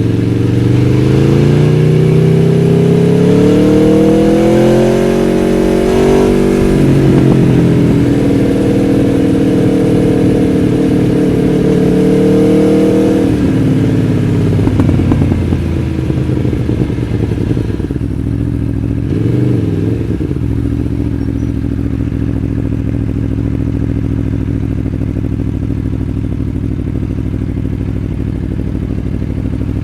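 Aprilia Tuono V4 1100 Factory's V4 engine pulling up through rising revs for about six seconds, holding a steady note, then easing off about 13 seconds in. After a brief blip of the throttle it settles to a low, steady note.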